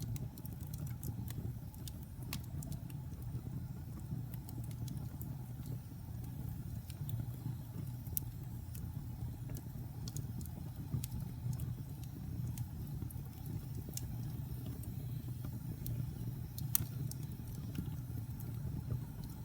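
Fire burning in a fireplace: a steady low rumble of flames with scattered sharp crackles and pops, one louder pop near the end.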